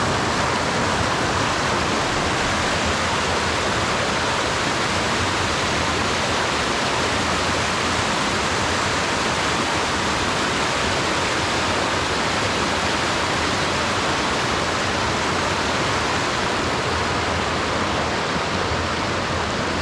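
Steady rushing of the Jacobs Fork river's water pouring over rocks, close by and unbroken.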